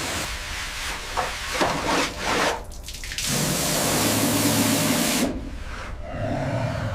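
High-pressure water spray hissing, the sound changing abruptly about three seconds in and again about five seconds in.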